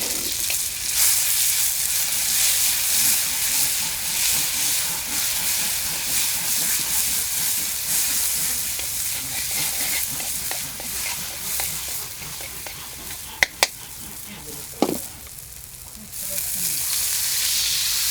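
Food frying in hot oil in a pan, a dense crackling sizzle with stirring. The sizzle drops back about twelve seconds in, with two sharp clicks and then a short ringing knock, and returns louder near the end.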